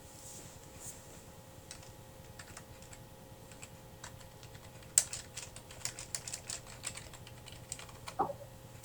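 Irregular light clicks and taps, sparse at first, then a dense cluster about halfway through, over a faint steady hum.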